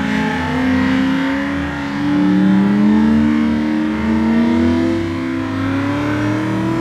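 Car engine held at high revs during a smoky burnout drift, its pitch wavering slowly up and down as the driver works the throttle, over the rush of spinning tyres.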